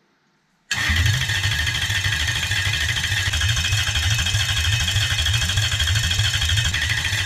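Toyota 1UZ-FE quad-cam V8 engine running steadily, cutting in suddenly about a second in.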